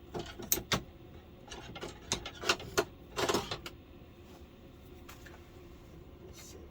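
Sharp plastic clicks and knocks as the clipped-together parts of an LCD television are handled and prised at, with a short scraping rasp about three seconds in.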